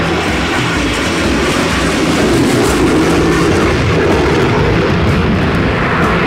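Aircraft engine noise: a loud, steady rushing sound, as an airplane passes.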